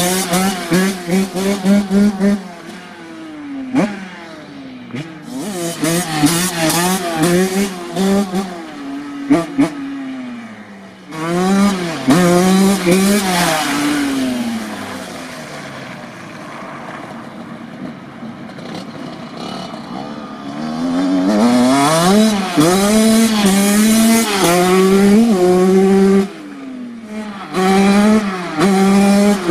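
Honda CR85's 85cc two-stroke single-cylinder engine being ridden hard, revving up in repeated climbs and dropping back between them. It is loud in bursts and fainter in between.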